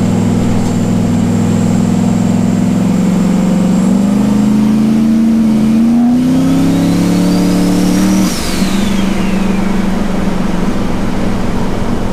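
Turbocharged LS V8 of a pickup truck running steadily, then rising in revs over a few seconds with a turbo whistle climbing alongside. About eight seconds in the throttle closes: the engine note drops and the whistle falls away as the turbo spins down, then the engine settles back to a steady run.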